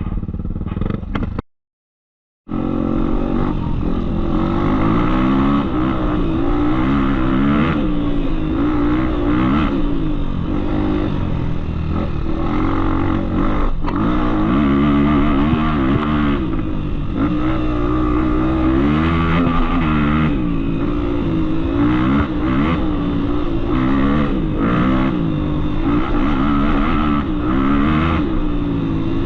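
Trail motorcycle engine running under constant throttle changes, its pitch rising and falling as it revs up and drops back over and over. The sound cuts out completely for about a second near the start.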